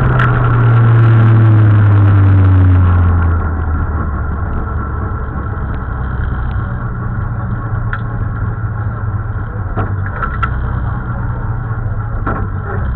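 Ford Escort MkII rally car's engine heard from inside the cabin: loud and falling in pitch as the car slows, then after about three seconds running steadily at low revs, with a few knocks.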